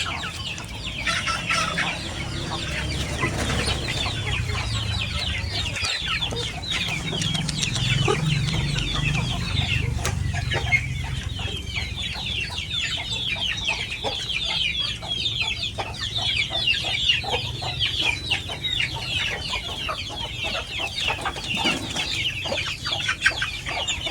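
A flock of Indonesian village chickens (ayam kampung) calling and clucking, many short high calls overlapping without a break.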